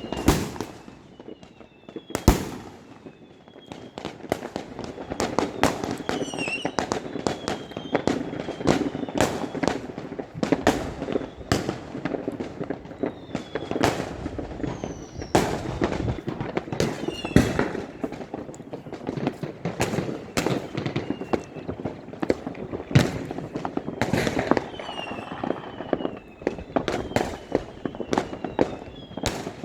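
Fireworks display: a dense, continuous run of bangs and booms over a steady rumble of distant bursts, with short whistles from the shells scattered throughout.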